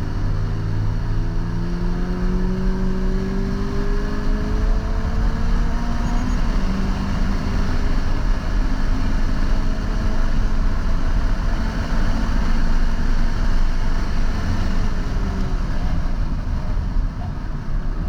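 2022 Toyota GR86's 2.4-litre flat-four engine pulling hard under acceleration, its pitch climbing for about six seconds, then a gear change, then running on at high revs. Under it is a dense steady hiss of tyres on a wet track.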